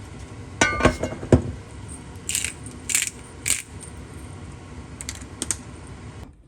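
Metal kitchen utensils clinking sharply a few times with a brief ring, then three short hissy scrapes and two more light clicks. A steady background hum cuts off abruptly near the end.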